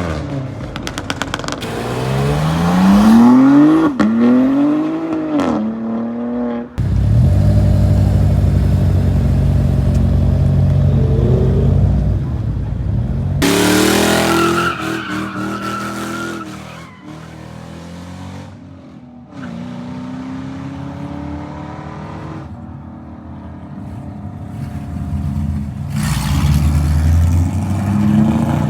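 Several cars revving and accelerating hard one after another, the engine note climbing in pitch as each pulls away, with loud stretches of steady low engine sound between them.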